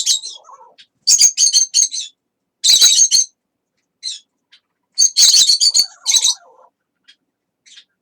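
Pet parrot chirping in rapid, high-pitched bouts: four runs of quick chirps about a second long each, with a few single chirps between them.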